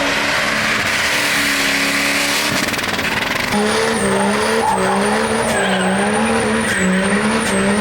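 A truck engine revving hard under load over a loud rush of spinning tires. From about three and a half seconds in, the engine's pitch wavers up and down with a thin high whine riding above it.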